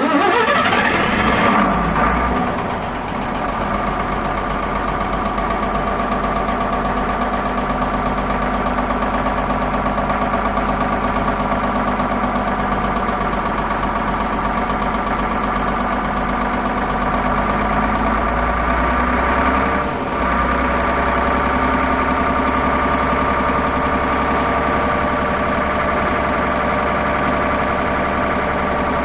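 Leyland Panther's six-cylinder diesel engine starting from cold. It fires straight away, runs fast for about two seconds, then settles to a steady idle, with one brief dip about twenty seconds in.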